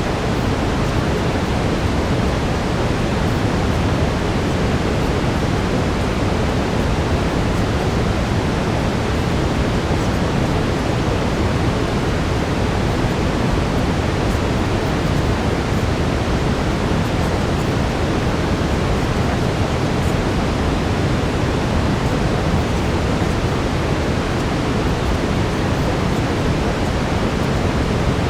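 Steady brown noise: an even, unbroken rushing hiss weighted toward the low end, used as a calming masking bed.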